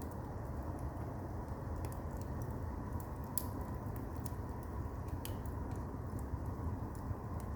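Firewood burning in a traditional Korean agungi fireplace: a steady low rumble of the fire with scattered sharp crackles and pops at irregular moments.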